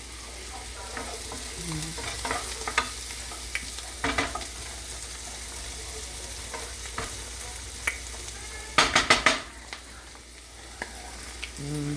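Vegetables sizzling as they sauté in a pan, stirred with a utensil that scrapes and knocks against the pan now and then. A quick run of about four loud clanks comes about nine seconds in.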